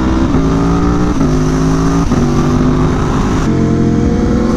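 Sport motorcycle's V4 engine under hard acceleration, heard from the bike, presumably the Aprilia Tuono V4 1100 Factory. The pitch climbs and steps at quick gear changes about every second, then keeps rising.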